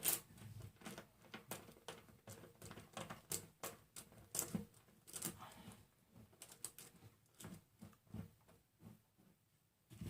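Irregular light clicks and taps of small metal BMX hub parts being handled and fitted together during reassembly.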